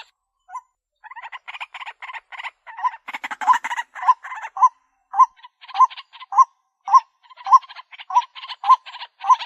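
White-breasted waterhen call: a fast, rattling chatter with a short rising note repeated about one to two times a second, played as a bird-lure recording. It breaks off for about the first second, then runs on without a pause.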